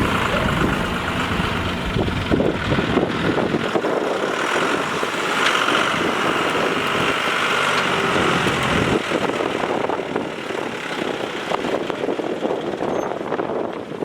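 Heavy farm machinery running: the diesel engines of a tractor and a rice combine harvester working in a muddy field. A deep rumble is strong at first and falls away about four seconds in, leaving a steadier, higher mechanical drone.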